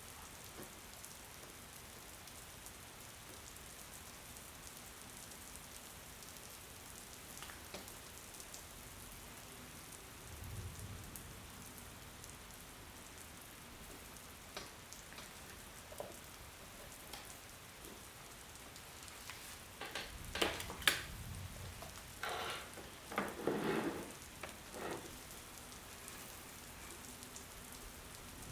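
Steady rain falling, an even hiss of drops on a surface, with a cluster of louder, sudden sounds about two-thirds of the way in.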